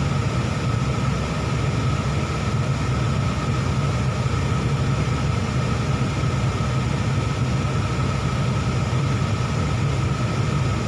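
Car air-conditioning blower running at full fan speed, with the engine held at about 2000 RPM, heard from inside the cabin: a steady hum and rush of air with a thin, even whine above it.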